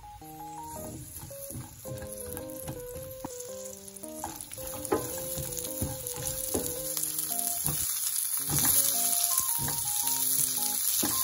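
Onion, carrot and sausage pieces sizzling in hot oil in a nonstick frying pan while being stir-fried with a spatula, with the odd knock of the spatula on the pan. The sizzle grows louder toward the end. Light background music plays over it.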